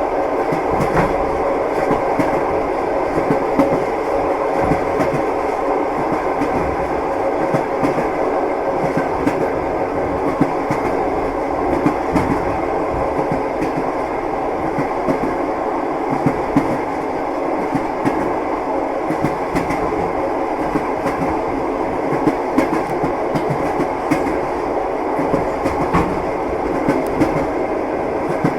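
Passenger train running, heard from inside the carriage: a steady rumble with the wheels knocking and clacking over the rails.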